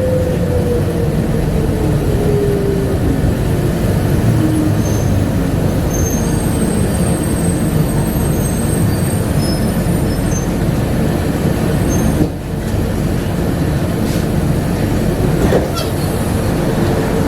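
Cabin ride noise of a rubber-tyred Bombardier APM100 people-mover car running along its guideway: a steady, dense rumble. A whine falls in pitch over the first few seconds. The noise dips briefly about twelve seconds in, and there is a knock about three seconds later.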